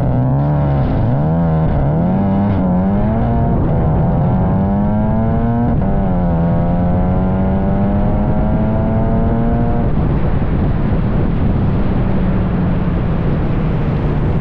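Tuned big-turbo VW Jetta GLI accelerating hard down a drag strip. The engine pitch wavers at the launch, climbs, drops at a gear shift about six seconds in, and climbs again. About ten seconds in the rising engine note gives way to a steady, noisier rumble.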